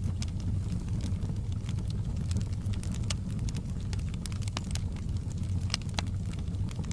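Wood fire burning in a fireplace: a steady low rumble with irregular small crackles and pops throughout, a few of them sharper snaps.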